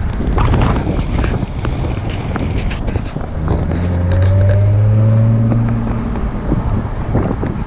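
Jaguar F-Type's engine heard from the open-topped cabin, pulling with a steady, slowly rising note from about three seconds in until it eases off around six seconds, under wind buffeting on the microphone.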